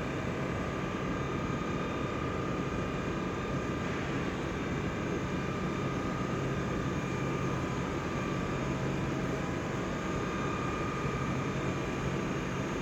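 A train running steadily: a continuous rumble with a steady high whine over it.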